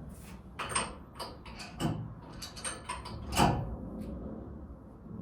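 A series of sharp knocks and clanks from tools and parts being handled while working on a car, a couple with a brief high squeak; the loudest knock comes about three and a half seconds in.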